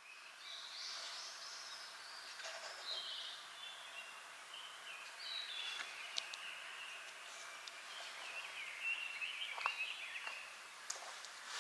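Wild songbirds singing and chirping in short varied phrases over a faint steady outdoor hiss, with a few sharp ticks.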